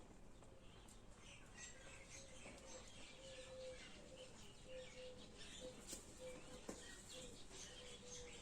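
Faint birds chirping in the background, with a faint low hum pulsing evenly underneath.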